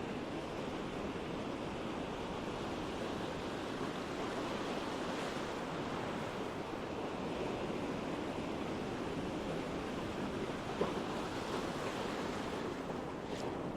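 Ocean surf washing steadily on a sandy beach, an even rush of breaking waves, with a short click about eleven seconds in.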